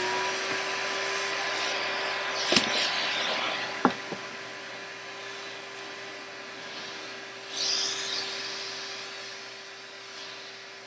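Hoover Spirit canister vacuum cleaner running at full speed just after switch-on, its motor whine settling to a steady pitch over the rush of suction. Two sharp knocks come a few seconds in, and a short louder rush of air about three-quarters through.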